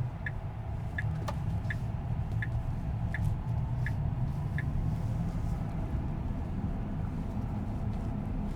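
Tesla Cybertruck's left turn signal ticking, about seven evenly spaced clicks roughly 1.4 a second, then stopping a little past halfway through. Under it is the steady low road rumble of the electric truck's cabin.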